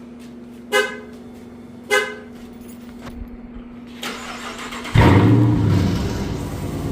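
Two short beeps from the Dodge 300, then about five seconds in its engine cranks and fires, running loudly with its exhaust just modified.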